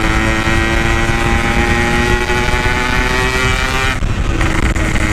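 Yamaha RX-King 135cc two-stroke single running under steady throttle through a stock-look Packing Power exhaust, its pitch creeping slowly up, then dropping about four seconds in as the throttle eases or a gear changes. Wind rumble on the microphone underneath.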